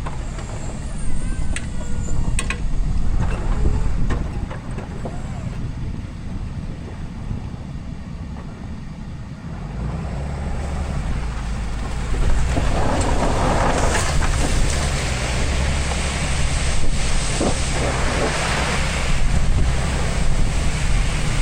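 Ram pickup's Cummins diesel engine running with a steady low rumble, with wind on the microphone. About twelve seconds in, a louder rushing noise joins.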